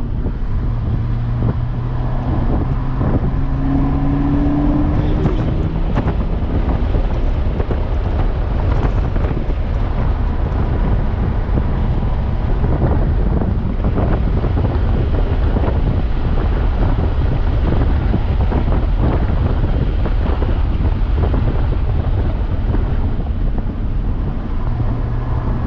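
Audi S5's supercharged 3.0-litre V6 being driven hard on a race track: the engine note climbs through the revs for the first few seconds. For most of the stretch it gives way to steady wind and road noise, then climbs again near the end.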